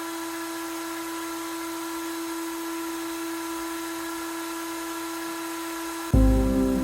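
CNC router spindle running a fly-cutting wheel, a steady, even whine with no change in pitch. Loud music cuts in near the end.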